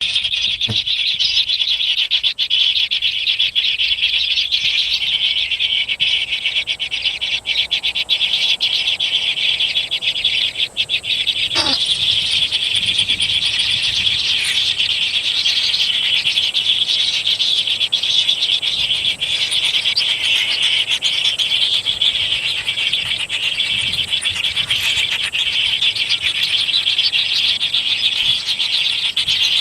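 A dense, steady chorus of small calling animals of the frog or insect kind, heard as a continuous pulsing buzz with a faint thin high tone above it.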